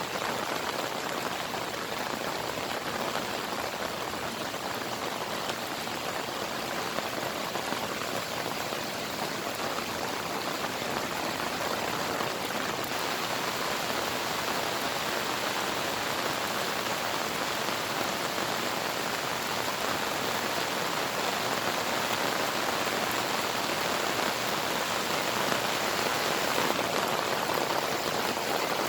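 Steady heavy monsoon rain pouring and pattering on surfaces, a dense even hiss that grows slightly louder near the end.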